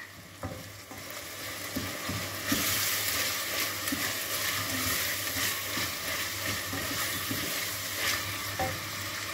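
Cubed meat, green peppers and freshly added tomato and pepper paste sizzling in oil in a stainless steel pot as they are stirred with a wooden spoon, to fry the paste. The sizzle grows louder about two and a half seconds in, then holds steady.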